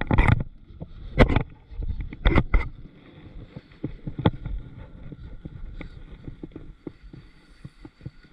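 Knocks and splashes on a kayak while a bass is landed: three loud strokes in the first three seconds, then lighter clicks and handling noise.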